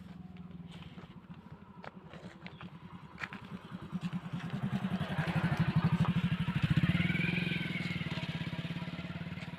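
Engine of a passing motor vehicle, growing louder to a peak about two-thirds of the way through, then fading as it moves away.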